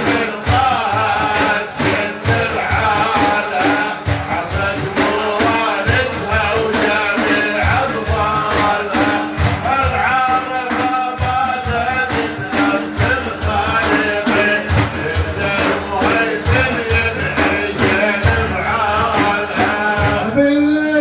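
Iraqi Sufi devotional music between the praise-singer's verses: a steady drum beat under a melody, with some singing.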